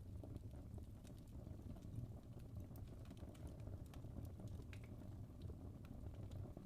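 Wood fire burning in a fireplace: a soft low rumble of flames with frequent small, irregular crackles and pops from the burning logs.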